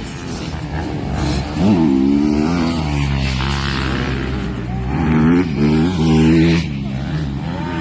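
Motocross bike engines running on the track, rising sharply in pitch about a second and a half in and twice more after about five seconds.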